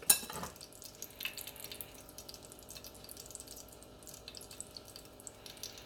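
Oil sizzling and crackling in a frying pan as breaded chicken cutlets shallow-fry, with scattered small pops. A single sharp knock comes right at the start.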